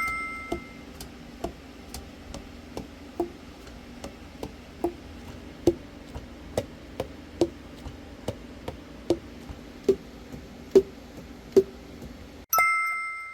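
Saxophone keys snapping shut over and over, about two a second, each a click with a short hollow knock whose pitch shifts slightly from one to the next. A bell-like chime sounds at the start and again near the end.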